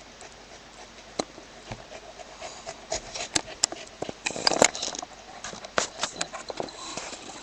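Scattered clicks, taps and scuffling as a Samoyed moves about close to the microphone. The sounds come thicker from about three seconds in.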